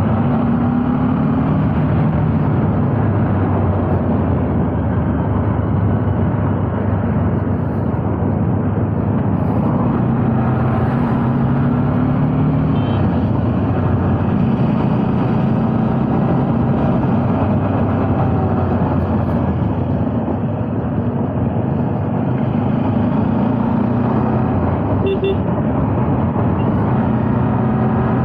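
Motorcycle engine running under way, its pitch rising and falling several times with throttle and gear changes, over steady wind and road noise.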